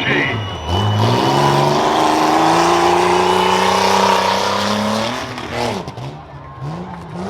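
Rough-truck engine pulling hard at full throttle, its pitch climbing steadily for about four seconds, then dropping as the throttle comes off, with a few short blips of throttle near the end.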